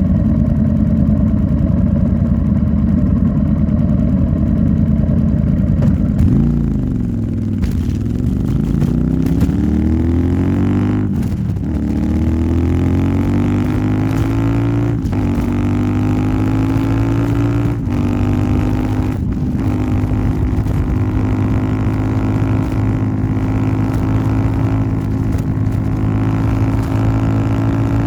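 Royal Enfield Interceptor 650's parallel-twin engine through an aftermarket Nuke exhaust, running steadily, then dropping briefly about six seconds in. It then pulls up through the gears, with the engine note rising and breaking at three shifts, and settles into a steady cruise.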